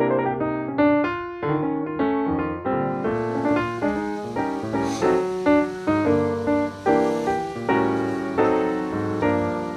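Background piano music, chords struck every second or so, each note dying away after it sounds.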